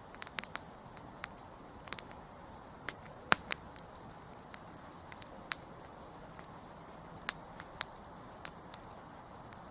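Wood campfire burning, with sharp irregular crackles and pops over a soft steady hiss; the loudest pop comes about a third of the way in.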